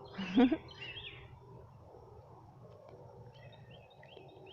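Small birds chirping faintly in the background, a few short chirps about a second in and again near the end. A brief voiced sound from a person, like a short 'hmm', comes right at the start and is the loudest thing.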